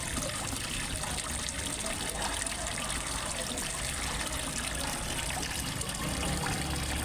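Small waterfall trickling and splashing steadily into a fish pond.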